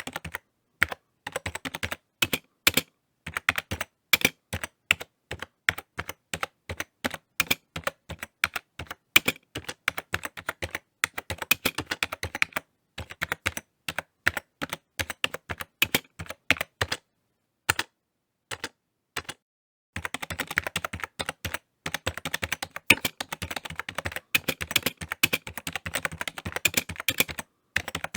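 Typing on a computer keyboard: quick runs of key clicks with brief pauses between bursts, and faster, denser typing in the last third.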